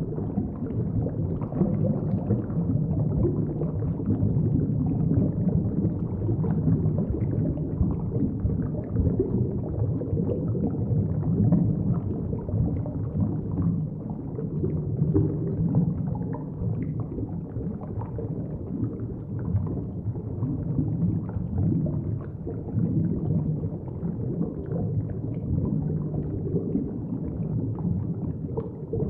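Muffled underwater rumble and bubbling heard through a submerged camera, with small faint ticks scattered throughout.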